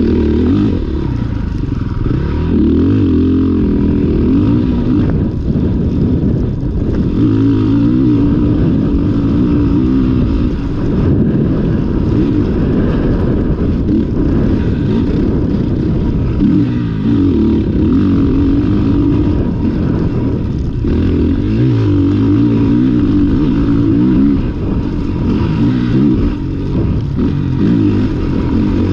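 Motocross dirt bike engine heard close up from an onboard camera, its pitch rising under throttle and falling back again and again as it accelerates and shifts around the track.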